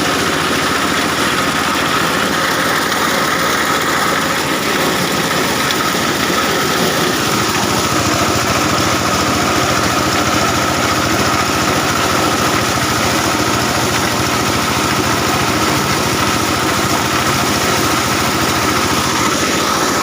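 Engine-driven corn sheller (maize threshing machine) running steadily, a loud even machine drone with a constant whine.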